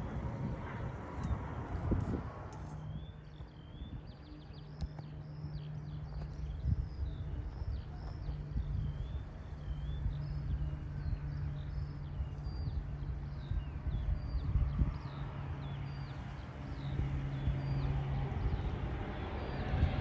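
A songbird singing a long series of short, quick chirps and whistles over a steady low hum, with jet aircraft noise building near the end.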